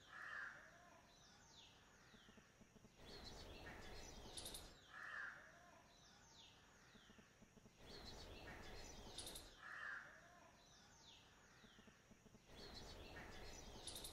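Faint birds chirping: short falling chirps with a softer call beneath, the same pattern coming round about every five seconds.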